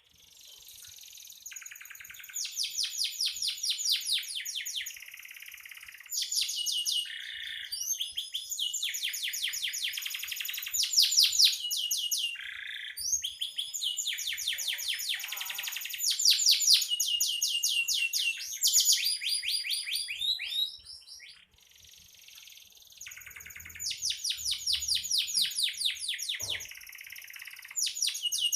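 Domestic canary singing continuously in long runs of fast trills, with a short break about three-quarters of the way through.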